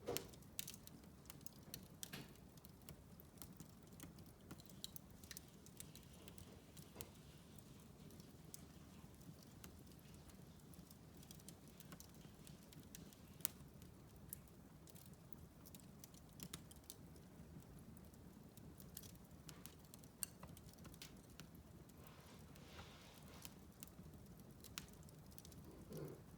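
Wood fire in a fireplace crackling quietly: irregular small snaps and pops over a faint low rumble of the flames, with one sharper pop about halfway through.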